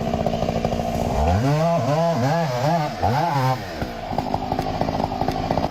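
Gasoline chainsaw engine running steadily. About a second in it is blipped up and down about five times in quick succession, then settles back to a steady run.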